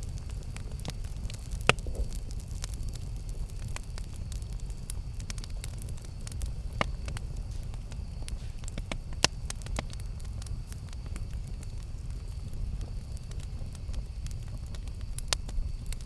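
Campfire crackling, with scattered sharp pops over a steady low rumble of the burning fire; the loudest pops come about two seconds in and about nine seconds in.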